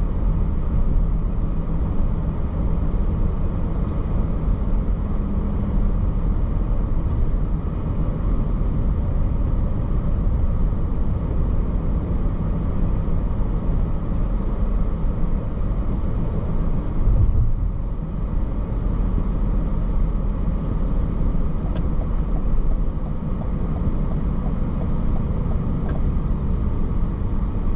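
A car driving along a road: steady low rumble of tyres and engine.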